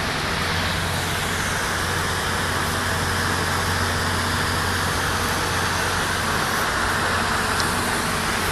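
Steady, even background noise with a constant low hum underneath, without any distinct events.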